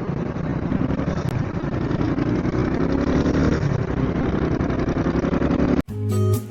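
Small motorcycle engine running on the road, with steady road noise. It cuts off abruptly near the end, and guitar music begins.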